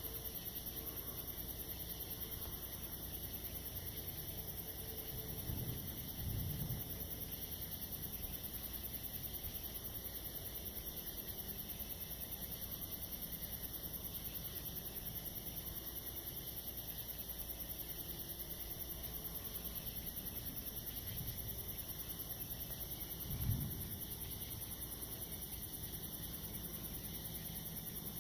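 Steady night-time chorus of crickets and other insects, with two brief low thumps, about a quarter of the way in and near the end.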